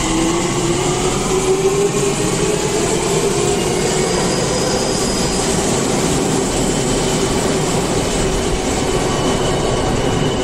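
Electric commuter train pulling out of a station platform: its traction motor tone rises in pitch over the first couple of seconds and then holds over a steady rumble of wheels on rail.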